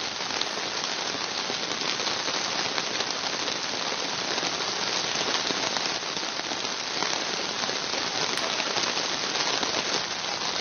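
Heavy rain pouring down: a steady, dense hiss with a fine patter of drops striking surfaces.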